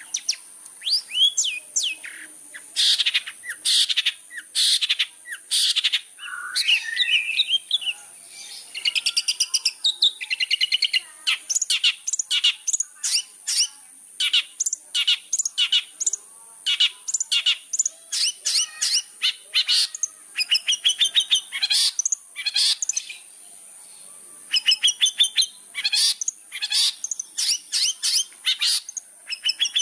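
Long-tailed shrike singing a fast, varied chattering song of short sharp notes, rapid trills and quick glides, with a few brief pauses, over a steady high-pitched hiss.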